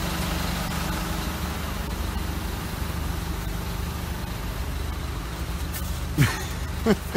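Car engine idling, heard as a steady low hum from inside the cabin of a taxi crawling in a traffic jam. Near the end come two brief sounds that fall sharply in pitch, less than a second apart.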